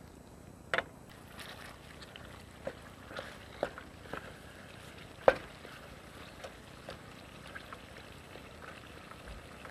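Chicken cooking in oil in a steel pot: a faint steady sizzle with irregular sharp pops and clicks, the loudest about five seconds in.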